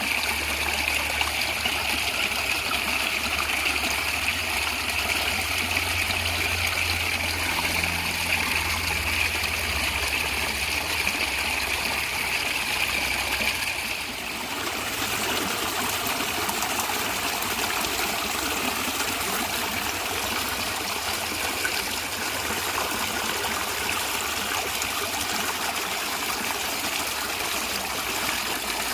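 Natural stream water flowing and gurgling steadily. About halfway through there is a brief dip and the sound changes character, as if switching to another stretch of water.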